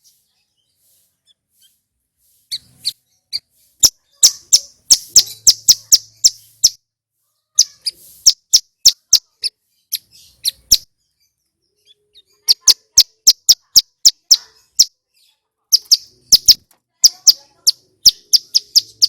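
A male ciblek gunung (hill prinia) singing loud, clear, sharp high notes, each very short, fired rapidly in runs of a few seconds with brief pauses between them.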